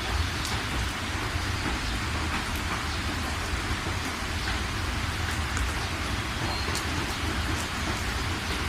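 Steady rain falling, a continuous even hiss with a low rumble beneath, and now and then single drops striking close by.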